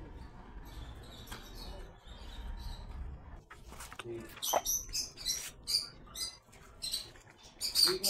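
Birds chirping: a run of short, shrill calls, close together, that starts about halfway through and grows louder toward the end.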